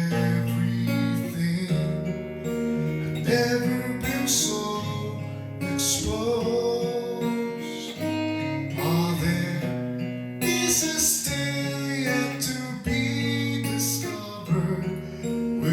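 Music: an instrumental passage of a song, led by strummed acoustic guitar over held bass notes.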